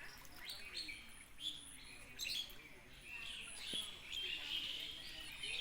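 Several birds chirping and calling in short, overlapping chirps, over faint outdoor background.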